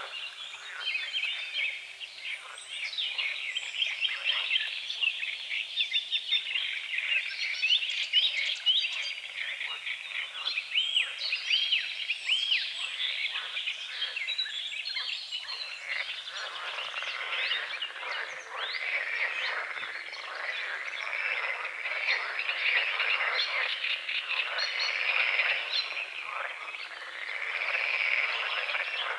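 Frogs croaking in a dense chorus with birds singing through it, an unbroken mass of short overlapping calls and chirps.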